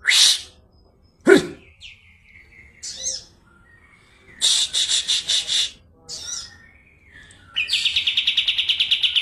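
Kapas tembak songbird singing: short sharp call notes and a falling whistle, a burst of rapid repeated notes, then near the end a long fast trill of about a dozen notes a second.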